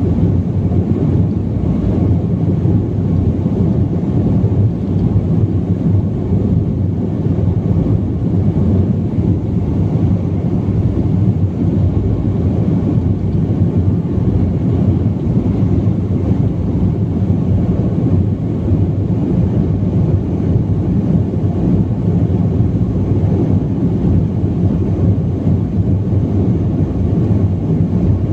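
Steady low rumble inside the passenger cabin of a BAe 146 jet airliner in flight, from its four turbofan engines and the airflow, unchanging throughout.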